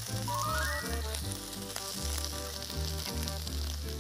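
Deodeok roots sizzling in sesame oil on a wide hot pan as gochujang sauce is brushed onto them, a steady frying hiss. Background music plays over it, with a quick rising run of notes about half a second in.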